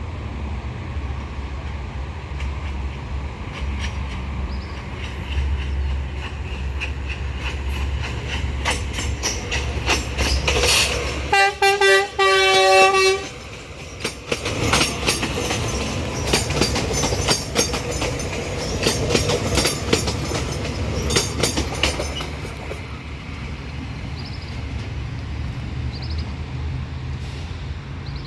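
Passenger train passing: a steady low engine rumble, with the wheels clicking rapidly over the rail joints for about fifteen seconds. About halfway through, the horn sounds twice in a chord, the second blast longer and the loudest sound here.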